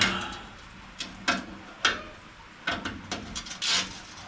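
Irregular metallic clicks and clanks of a hand wrench turning a bolt loose on a round baler's steel frame, about two strikes a second with a short scrape near the end.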